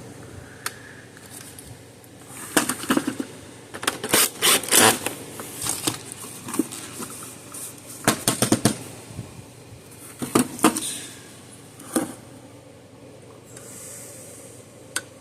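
Irregular clusters of small clicks, taps and scrapes as a loose screw and a screwdriver bit are fiddled against a fence charger's plastic case, trying to get the screw to line up with its hole.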